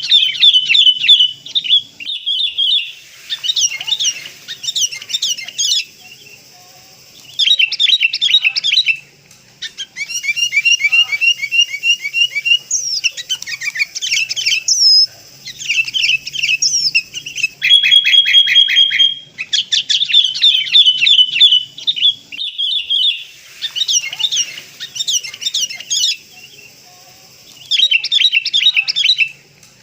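Sooty-headed bulbuls calling: repeated bursts of rapid, bubbly chirps and short whistled notes, each a second or two long, with brief pauses between.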